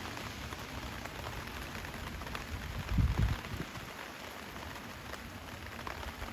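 Steady rain pattering on surfaces, a dense haze of fine drop ticks, with a short low thud about three seconds in.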